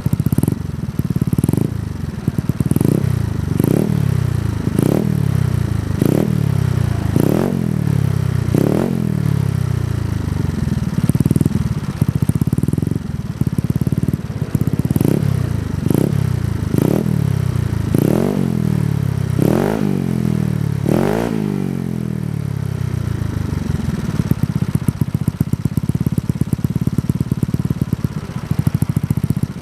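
Yamaha Mio scooter's single-cylinder engine running through a Kenochi K1 aftermarket racing exhaust, the throttle blipped over and over, about one short rev every one and a half seconds, each a quick rise and fall in pitch. For the last several seconds it settles to a steady idle.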